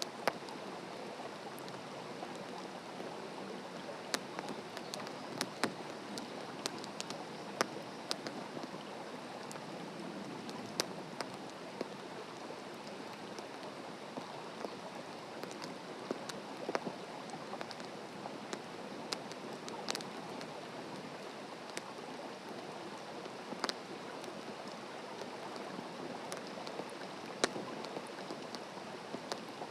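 Wood campfire burning on open ground, crackling: irregular sharp pops and snaps over a steady hiss.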